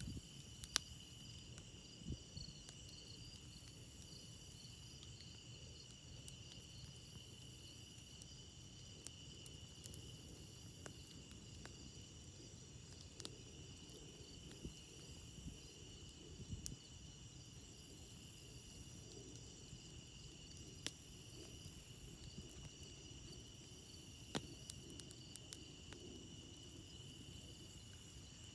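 Crickets chirping steadily at several pitches, over a crackling campfire that gives a few sharp pops.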